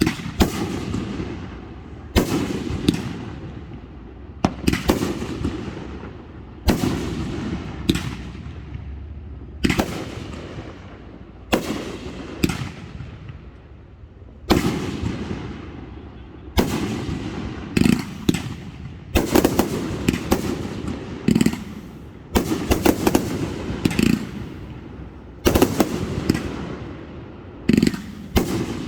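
Aerial fireworks display: shells bursting overhead every second or two, each sharp bang followed by a long rolling echo. The bursts come faster in the second half, with quick volleys of reports.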